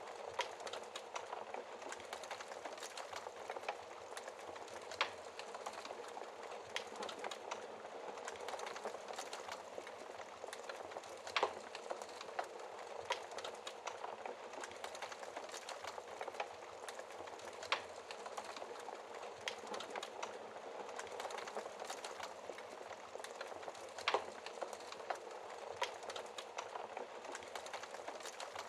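Log fire crackling over a steady hiss of rain, with a sharp louder pop every few seconds.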